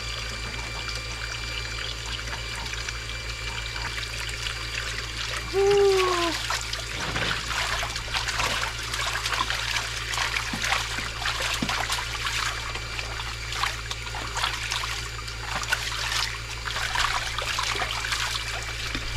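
Water running and splashing over a dog as it is washed, a steady trickling and spattering. A brief falling whine-like vocal sound comes about six seconds in, the loudest moment.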